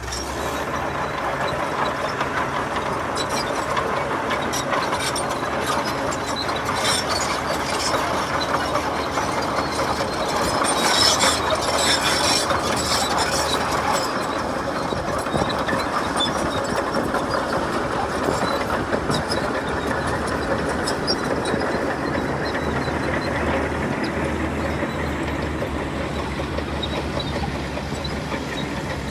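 Heavy earthmoving machinery working: a steady diesel engine drone overlaid with metallic clanking and rattling, busiest around eleven to thirteen seconds in.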